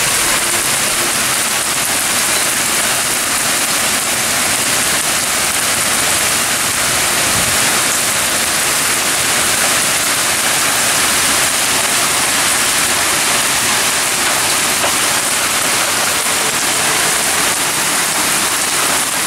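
Heavy rain pouring down steadily, a dense hiss of drops hitting the ground and lawn.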